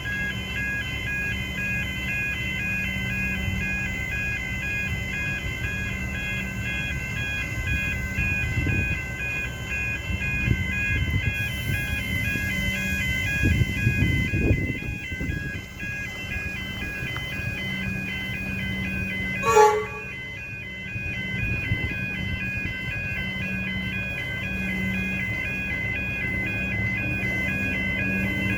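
Railway level crossing warning bells ringing in a steady repeating pattern, over the low hum and rumble of rail traffic. About two-thirds through there is a brief sharp sound with a falling pitch.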